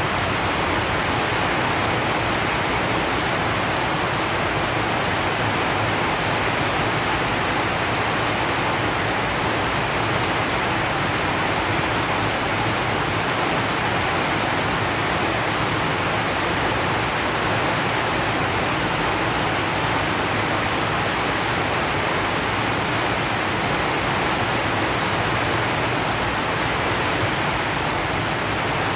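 Steady rain falling on a corrugated zinc roof, a dense, even hiss with no let-up.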